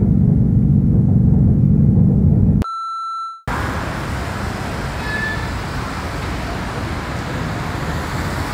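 Loud low vehicle rumble, cut off abruptly by a single steady electronic beep lasting under a second. Then comes a steady, wider hiss-like traffic noise.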